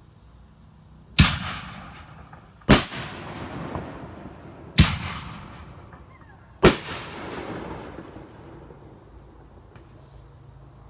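Consumer fireworks going off in four sharp bangs, about two seconds apart, each trailing off over about a second.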